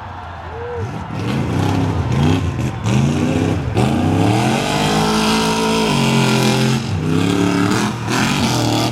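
Off-road race truck engine revving hard under throttle, rising and falling several times, held at high revs for a couple of seconds, then dropping and climbing again near the end.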